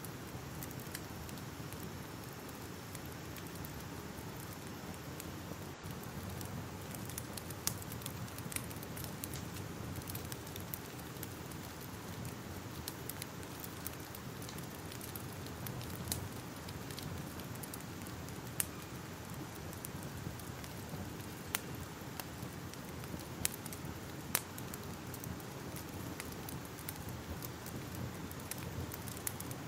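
Crackling fire: a steady low rumble and hiss of burning with irregular sharp pops and snaps scattered throughout.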